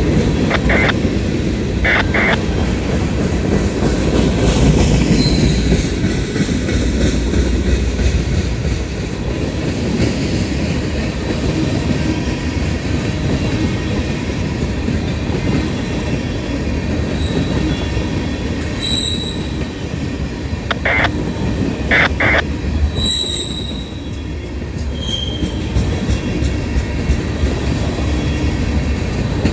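Freight train of tank cars and boxcars rolling past, a steady rumble of steel wheels on rail. Short high wheel squeals cut in twice near the start and twice again about two-thirds of the way through.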